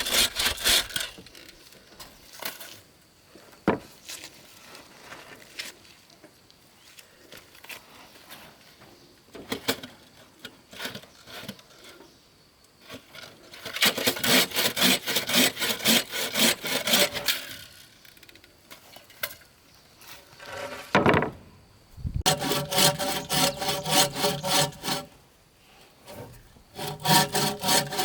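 Hand saw cutting wood in several runs of rapid back-and-forth strokes, with pauses between them holding only a few light knocks.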